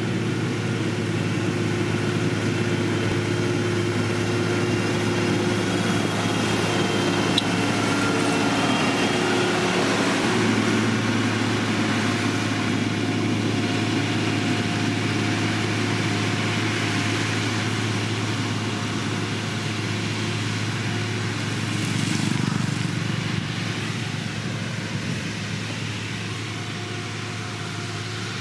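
Heavy road-construction machinery running, a steady diesel engine hum with slowly shifting tones over it and a slight swell near the end.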